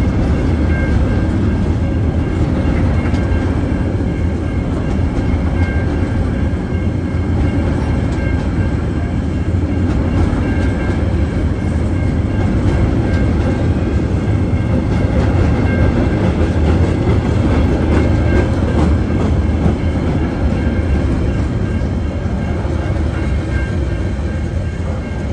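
Freight train wagons (hoppers, then container flats) rolling steadily past at close range: a continuous low rumble of steel wheels on rail, with light clicks of the wheels passing over the rail joints.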